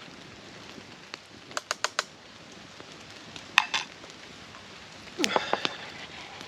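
Metal cutlery and camp cookware clinking while food is served: a quick run of three or four clicks, a single sharp knock, then a cluster of clinks near the end, over a steady faint hiss.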